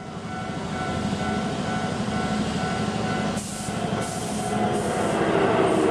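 Electric train running: a steady rumble with a faint motor whine, swelling in at the start and growing louder toward the end, with short high hisses from about three and a half seconds in.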